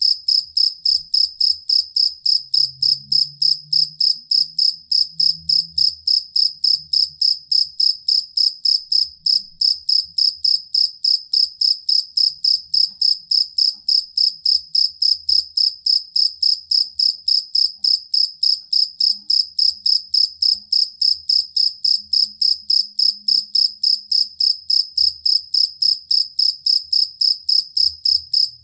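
Field cricket (jangkrik kalung, the two-spotted cricket) singing a steady, unbroken run of evenly spaced, high-pitched chirps, several a second.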